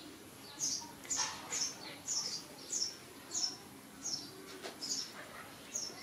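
A small bird chirping over and over: short, high, slightly falling chirps, about two a second.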